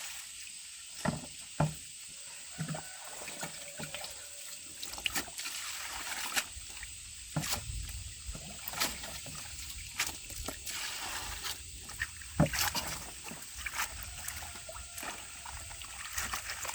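Water sloshing and trickling as something is washed by hand, with small splashes and knocks at irregular intervals.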